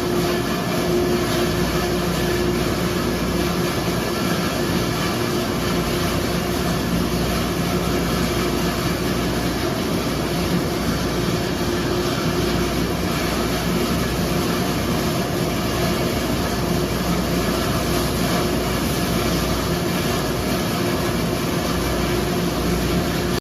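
Steady rumble with a constant low hum from a running vehicle, unchanging throughout.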